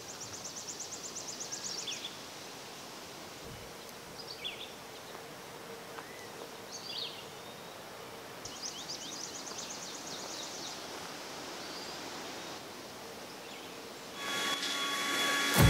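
Outdoor ambience with songbirds: a fast, high trill of about two seconds, heard twice, with a few short chirps in between, over a steady background hiss. Music comes in near the end.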